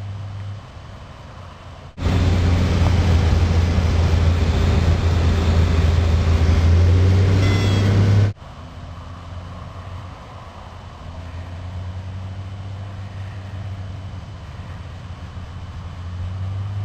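Cessna 185 Skywagon's six-cylinder engine droning steadily at low power on final approach. A much louder rushing noise starts abruptly about two seconds in and cuts off about six seconds later.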